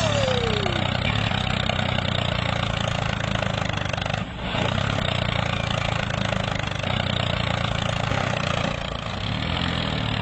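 Small engine of a DIY mini tractor running steadily, with a brief dip in level about four seconds in.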